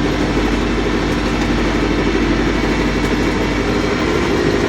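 Farm tractor engine running steadily with an even, fast firing pulse.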